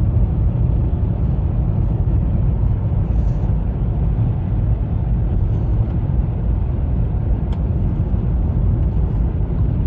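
Steady road noise heard inside a 2020 Honda Fit's cabin while driving on a snowy road: a constant low tyre and engine rumble with no sharp events.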